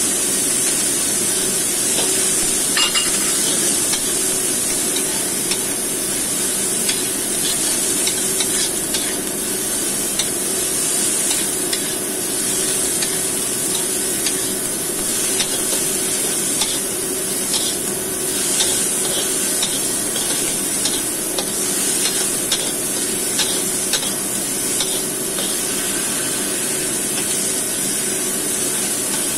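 Fried rice with diced vegetables sizzling steadily in a coated wok, stirred with a metal spatula that scrapes and taps against the pan in frequent irregular clicks.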